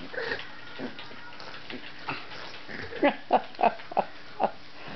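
Boston terrier puppies at play, a few soft grunts and then five short, high yaps in quick succession about three seconds in.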